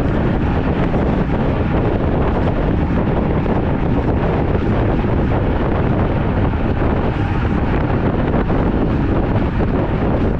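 Wind rushing over the microphone of a camera riding along on a road bike: a loud, steady rushing noise, heaviest in the low end.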